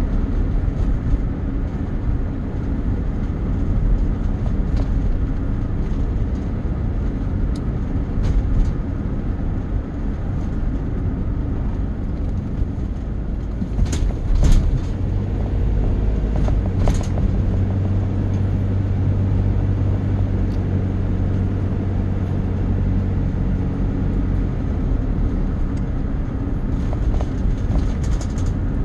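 Steady low rumble of a running vehicle engine, with a humming note through the middle and a few sharp clicks about halfway through.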